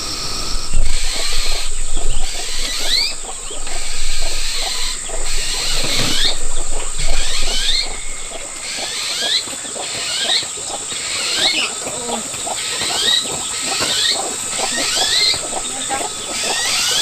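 Small animals calling: short rising squeaks repeated about once or twice a second, over a steady high hiss and scattered rustling clicks.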